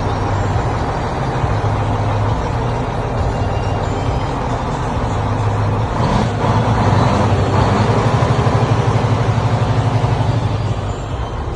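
Mechanically injected Mack E7 inline-six diesel in a 2002 Mack RD truck, running steadily. It gets louder with a more distinct pulse from about six seconds in, and eases again near the end.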